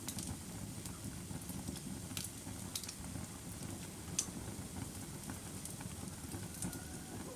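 Wood fire burning with a steady low rumble of flames and a few sharp, scattered crackles and pops.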